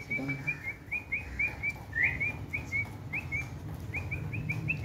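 A small bird chirping over and over: short, high, upward chirps, about four or five a second, with a few brief pauses.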